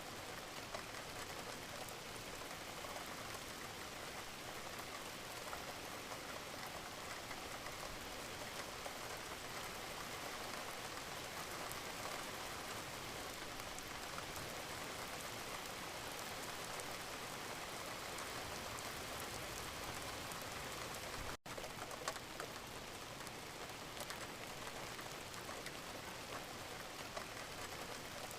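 Steady gentle rain, an even hiss with scattered individual drops ticking. It cuts out for a split second about three-quarters of the way through, with a sharp click just after.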